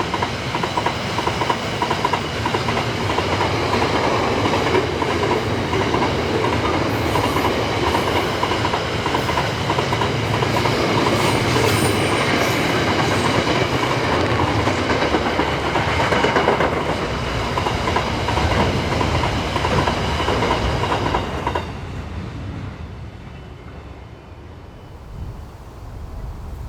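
Train wagons rolling past, with the clickety-clack of wheels over rail joints and a thin steady squeal from the wheels. The rolling noise ends suddenly about 21 seconds in, as the last wagon passes, leaving a much quieter background.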